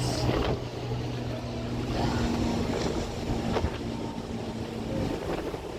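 Steady low hum of a cruise ship's machinery under wind noise on the microphone, with a few faint clicks.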